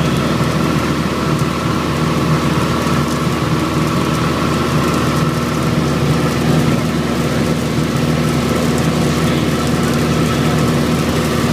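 Light aircraft's piston engine and propeller in flight, a steady, even drone with constant pitch.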